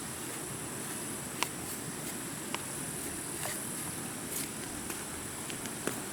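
Steady outdoor ambience with a continuous high-pitched hiss, broken by about five light clicks or taps at irregular intervals.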